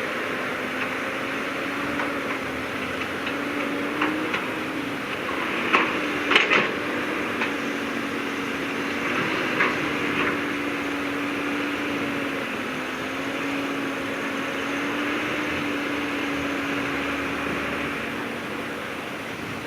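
Heavy earth-moving machinery's diesel engine running steadily, its pitch rising and falling a little, with a few sharp knocks, the loudest about six seconds in.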